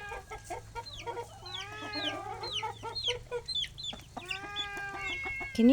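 A mother hen clucking to her chicks over food, with the chicks' short, falling peeps repeating throughout. Near the end a longer, steadier call sounds, a cat meowing for its food.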